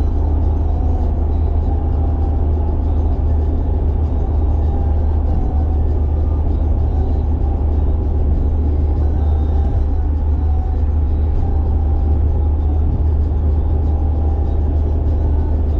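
A carbureted Nissan Silvia's engine running steadily at highway cruising speed, heard from inside the cabin as a constant low drone mixed with road noise.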